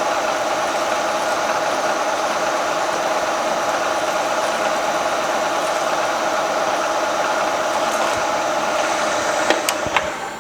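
Vertical milling machine drilling into a hardened steel crankshaft counterweight: a steady, loud running sound with a strong whining tone. It stops near the end with a few sharp clicks.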